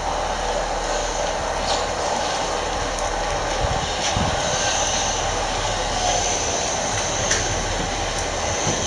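Southern Class 377 electric train running into the station platform: a steady rumble of wheels on rail and traction motors. A thin high squeal joins about four seconds in.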